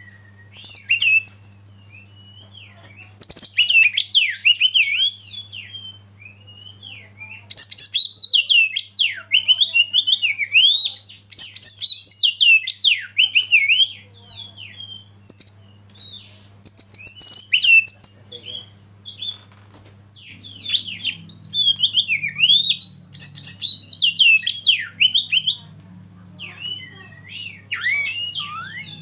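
Oriental magpie-robin (kacer) singing in bursts of rapid, varied whistled phrases with quick rising and falling notes and short pauses between them, over a steady low hum.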